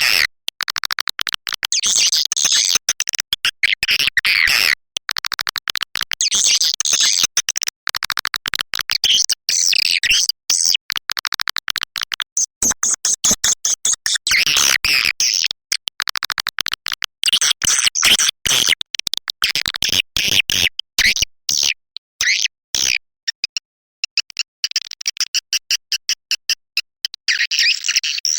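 Swiftlet lure call: a recorded, looped track of dense rapid swiftlet chirps and twitters, played loud and continuous, of the kind broadcast from swiftlet houses to draw the birds in to nest. It breaks off briefly about 23 seconds in, then resumes.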